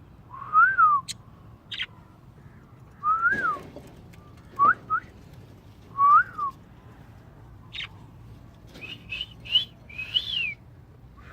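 A bird whistling. A rise-and-fall whistled note comes three times, about three seconds apart, with short sharp chirps between them. Near the end comes a quicker run of higher whistles.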